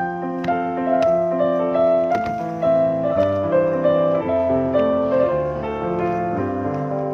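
Piano music: a melody of struck notes over held chords, with notes changing several times a second.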